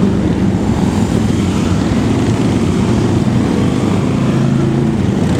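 Many motorcycle engines running together as a procession of bikes rides past, a dense, steady drone with engine pitches shifting up and down.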